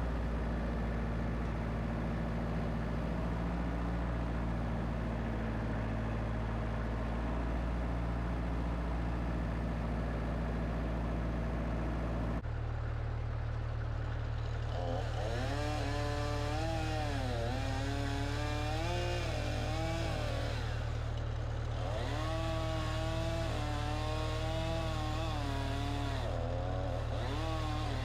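Wood-Mizer LX25 band sawmill's engine running steadily. After an abrupt change about twelve seconds in, the engine's pitch wavers up and down under load as the band blade saws through cedar.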